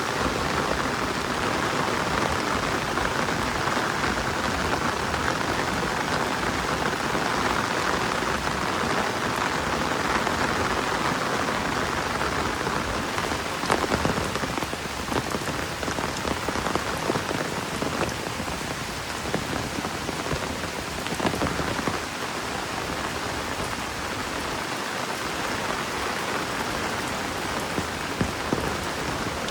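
Steady rain falling, an even hiss, with scattered sharper drop hits from about halfway through.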